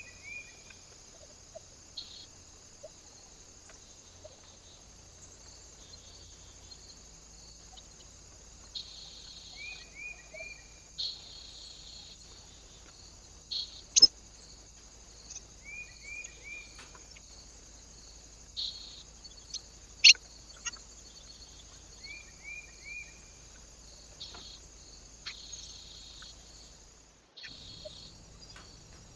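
Small birds at a feeder: a short call of three quick down-slurred chirps repeats four times, with a few rustles and two sharp loud taps, likely beaks pecking or birds landing on the feeder. A steady high hiss runs underneath.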